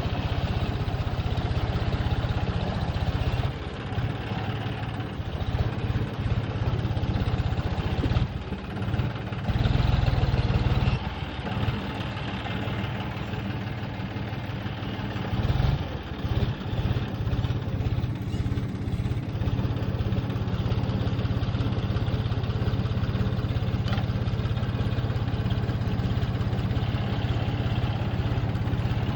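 Tractor engine running steadily in a low, pulsing note, its level rising and falling a few times as the load or throttle changes, loudest about ten seconds in.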